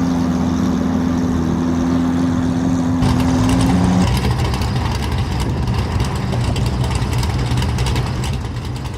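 A car engine running close by with a steady low rumble. A humming drone in it stops about four seconds in, and the sound turns rougher.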